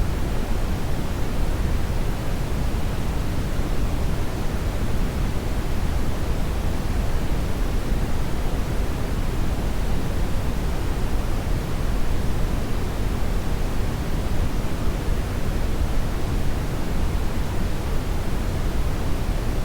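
Hair dryer blowing steadily: an even, unbroken rush of air noise, heaviest in the low end.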